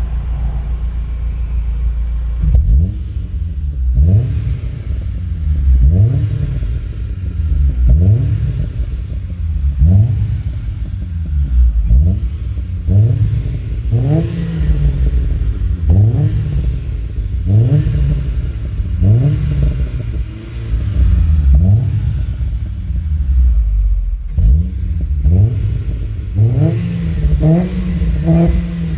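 Hyundai Getz 1.1's small four-cylinder engine being blipped through a Remus aftermarket exhaust: short rising revs about every two seconds over a deep idle rumble, with exhaust pops as the revs drop.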